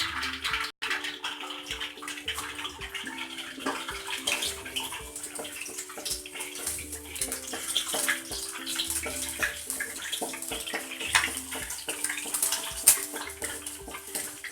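Egg frying in hot cooking oil in a wok, sizzling steadily with dense crackling.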